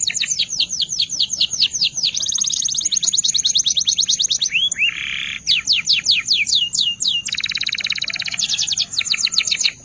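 Belgian canary singing a long continuous song: rapid runs of falling whistled notes, about ten a second, broken about halfway by two slower slurred notes, then a dense buzzing roll before the fast notes return.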